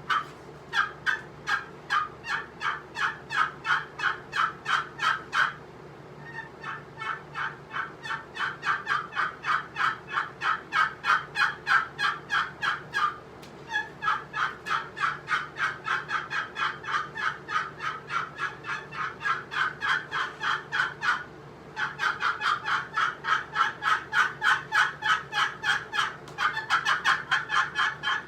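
Walnut trough turkey call worked with a walnut striker, producing four long strings of quick, raspy hen-turkey yelps, about three to four notes a second, with short breaks between the strings.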